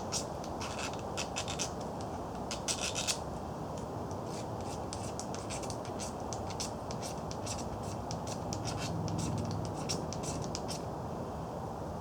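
Fire striker being scraped with a metal striker: a run of quick, short scrapes, some in fast clusters, as magnesium is shaved and sparks are thrown onto birch bark tinder.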